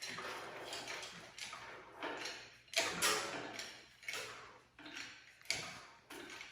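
Engine hoist lifting an engine out of a car: irregular clanks, creaks and scraping of metal, about one a second, with a couple of sharper knocks.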